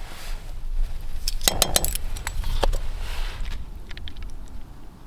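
Kitchen utensils clinking and scraping against a bowl while batter ingredients are measured and mixed: a quick cluster of clinks about a second and a half in, then a short scrape.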